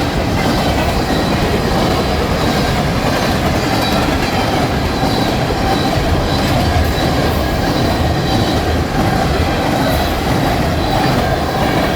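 Empty ethanol tank cars of a freight train rolling past at speed: a loud, steady rumble of steel wheels on rail, with a faint high whine above it.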